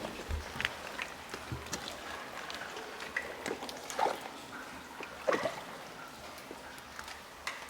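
Quiet outdoor ambience: scattered soft clicks and rustles with a few short chirps over a faint hiss.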